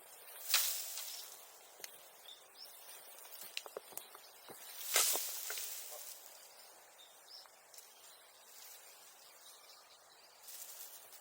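Leafy bamboo grass (sasa) being pushed through or handled, rustling in two loud swishes, near the start and about five seconds in, with a fainter one near the end. Scattered small clicks and snaps of stems come in between.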